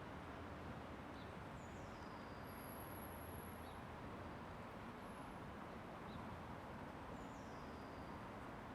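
Steady outdoor background noise with faint, high songbird calls over it: two short calls sliding downward, several seconds apart, a thin high whistle, and a few soft chips.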